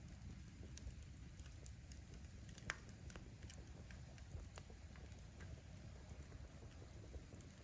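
Firewood burning in a campfire, crackling with scattered sharp pops over a low, steady rumble of flame. One pop about a third of the way in is louder than the rest.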